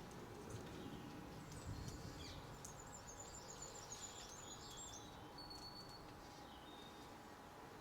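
A small garden songbird singing one faint, high twittering phrase lasting a few seconds, ending in a short steady high note, over a faint steady background hum.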